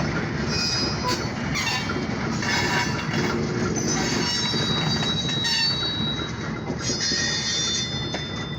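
Short freight train of ethanol tank cars rolling slowly, its steel wheels squealing against the rails in high thin tones that come and go over a steady rumble.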